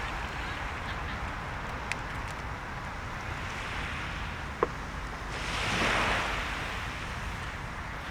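Steady rush of surf and wind on the shore, with a wave swelling in and washing up about six seconds in. Two sharp pops from the burning bonfire wood, the louder one a little past the middle.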